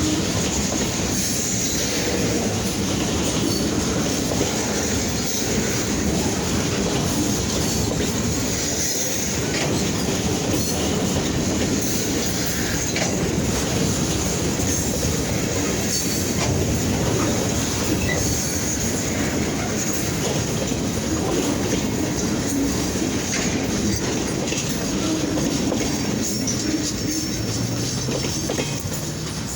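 Freight train rolling past, its wheels rumbling steadily on the rails with a thin, high squeal held above the rumble.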